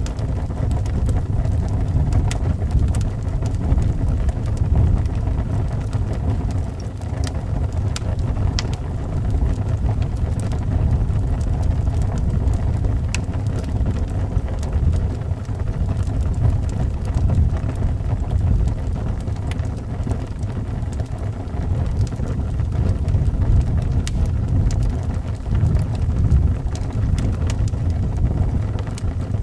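Wood fire crackling in a fireplace, with scattered sharp pops, over a steady low rumble of wind.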